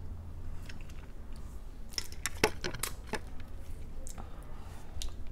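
Close-up eating of shell-on shrimp and crab: sharp clicks and clatter of shells and utensils against a plate, in a quick cluster about two to three seconds in, with a few more later and some chewing.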